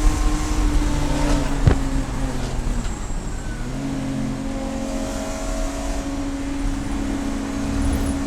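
Race car engine running at a steady pitch. A sharp click comes just before two seconds in, the pitch dips for a second or so, and then it settles back to a steady tone.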